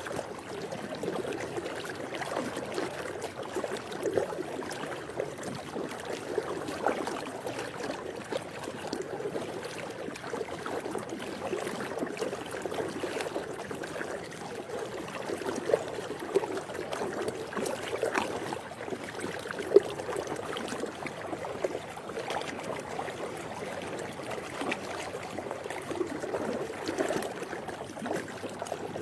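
Swimming pool water moving and splashing steadily, a continuous wash dotted with many small irregular splashes.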